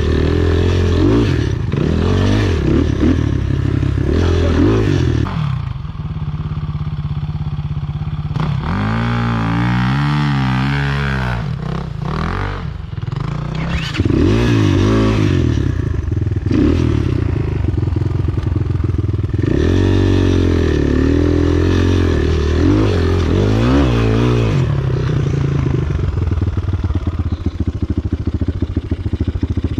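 Enduro motorcycle engine being ridden off-road, revving up and down over and over, with a short easing of the throttle several seconds in.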